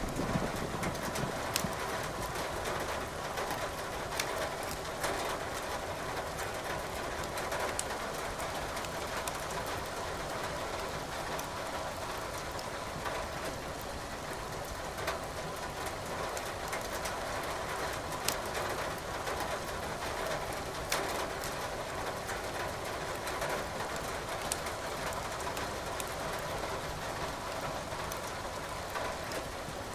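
Rain falling steadily over wood burning in a fireplace, the logs giving occasional sharp crackles and pops over an even hiss.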